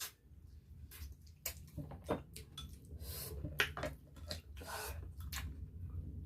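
Close-miked eating sounds: wet chewing and short slurps, with light clinks of a utensil against a dish.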